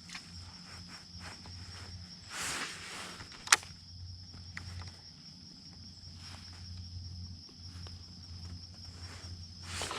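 Steady high-pitched insect trilling, typical of crickets along the bank, under a low hum. A brief swish about two and a half seconds in and a sharp click a second later.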